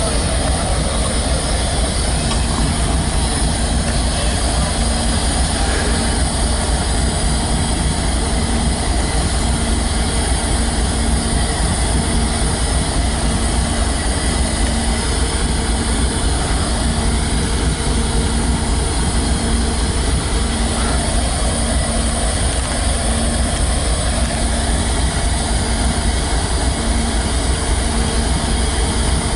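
CSX double-stack intermodal freight train making a steady, loud rumble with no break. A short tone sounds and stops over and over at an even pace, roughly once a second.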